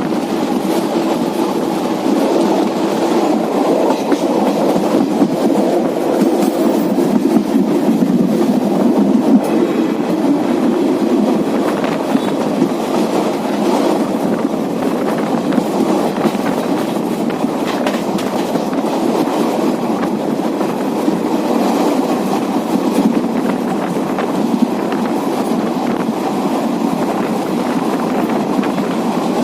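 Running noise of a moving Indian Railways passenger train, the Varanasi Intercity Express: a steady rumble of wheels on rail with intermittent clickety-clack over the rail joints.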